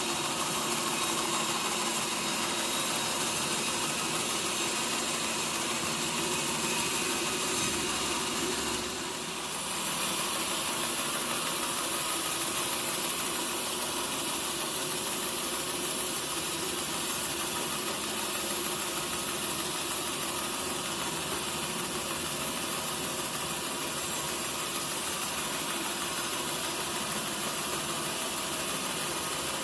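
Sawmill machinery running steadily, with a brief dip in level about nine seconds in.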